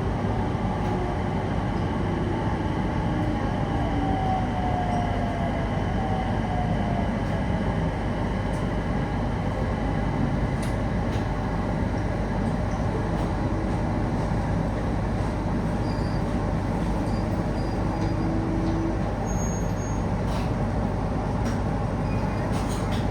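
Electric local train running along the line, heard inside the passenger car: a steady rumble of wheels and running gear, with a faint whine that slowly falls in pitch in the first several seconds.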